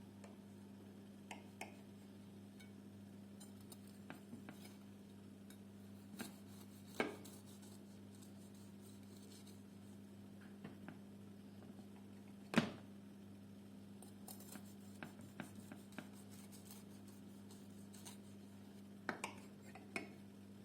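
Scattered light knocks and clinks of tableware and cutlery being handled, over a steady low hum. The loudest knock comes about twelve and a half seconds in, with a pair of smaller ones near the end.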